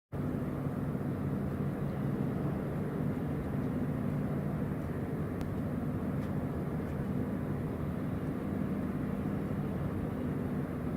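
Ship's engine running steadily: a low, even drone with a few hum tones over a noisy rush.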